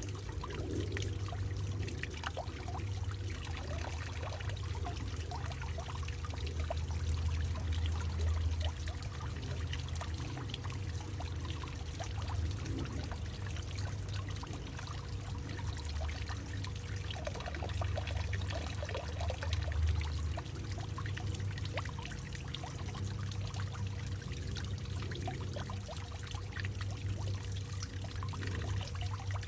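Water pouring and trickling in a hollowed-out tree, with many small irregular splashes over a steady low rumble.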